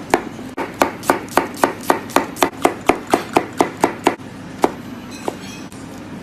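A knife chopping rapidly on a cutting board in an even rhythm of about four strokes a second. The chopping stops a little after four seconds, with one more strike shortly after.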